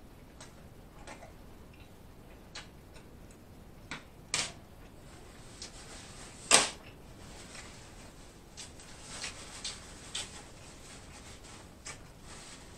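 Quiet close-up eating sounds: scattered chewing and mouth clicks, with a sharper click a little past halfway. A paper napkin rustles in the hands and is wiped across the mouth.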